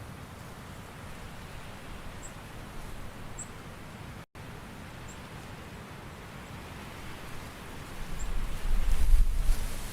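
Recorded outdoor autumn ambience: a steady soft hiss of rain or rustling leaves, with a few faint high ticks. A low rumble swells up near the end, and the sound cuts out for an instant about four seconds in.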